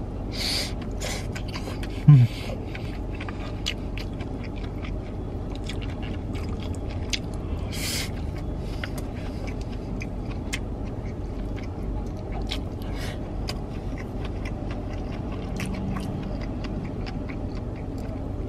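Close-up chewing and mouth sounds of someone eating a poke bowl, with small clicks of wooden chopsticks against a plastic bowl, over a steady low hum inside a parked car. A brief low vocal sound comes about two seconds in.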